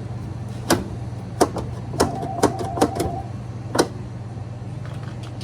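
A string of sharp clicks and knocks, about seven, from the Maytag Bravos washer's drive and shift parts being worked on, over a steady low hum. A brief steady tone sounds about two to three seconds in.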